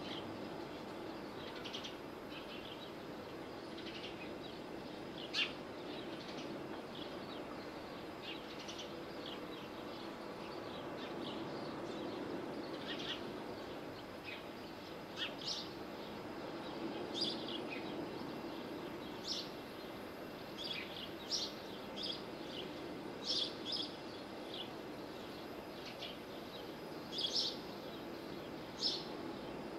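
Short, high bird chirps, one or two every second or two and coming more often in the second half, over a steady low background noise.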